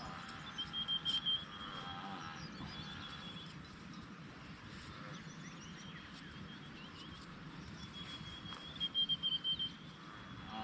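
A high, pulsing trill from a small animal, heard twice, each about a second long, about a second in and again near the end. Fainter chirps sound between them over a steady background hiss.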